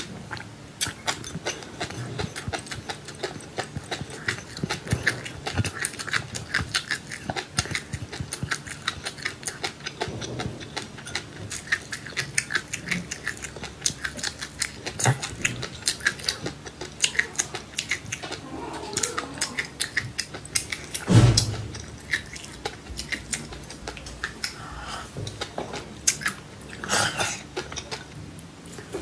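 Close-miked chewing of crunchy seeds: a dense run of small crunches and clicks, with one heavy thump about twenty-one seconds in.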